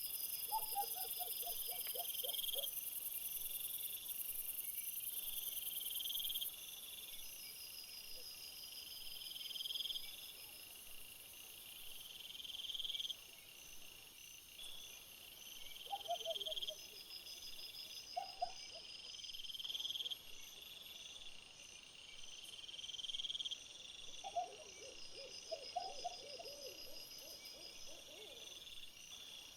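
Insect chorus of crickets and bush crickets trilling steadily, with a louder swelling buzz every few seconds. Several times a lower-pitched animal call comes in short runs.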